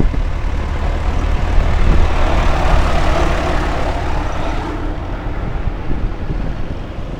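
An engine running steadily, with a rushing noise that swells up about two seconds in and dies away near five seconds.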